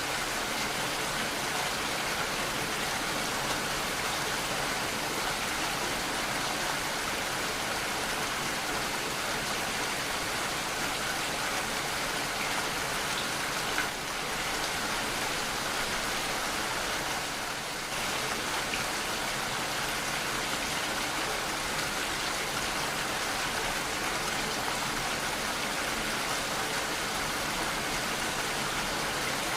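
Steady rainfall, an even, dense hiss of drops, briefly a little softer about halfway through.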